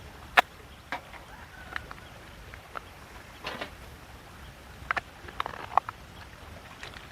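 A scattering of short, sharp knocks and clicks at irregular intervals, the loudest about half a second in and several close together around five to six seconds in.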